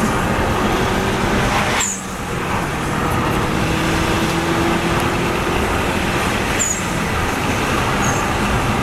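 Subaru Legacy Blitzen's turbocharged engine running under way, heard inside the cabin. The engine note dips briefly about two seconds in, then climbs steadily, with a few faint short high chirps.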